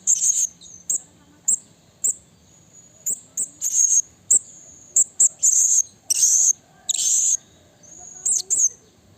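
Blue-crowned hanging parrot (serindit) calling: a string of short, sharp, very high-pitched calls at irregular intervals, with a few longer, harsher notes about halfway through.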